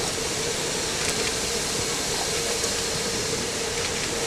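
Stanier Black 5 4-6-0 steam locomotive standing in steam, hissing steadily, with a faint steady tone under the hiss.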